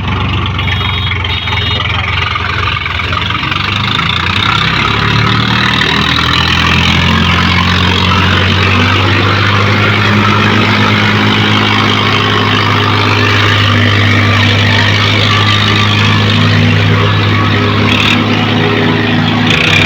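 Diesel tractor engines, a Swaraj 855 among them, running hard at high throttle under heavy pulling load in a tractor tug-of-war. A steady, loud low drone whose pitch rises slightly about four to six seconds in, with a dense noisy layer above it.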